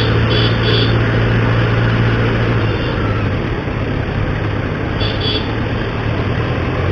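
A 900 cc superbike engine running steadily at idle through its stock exhaust, not very loud.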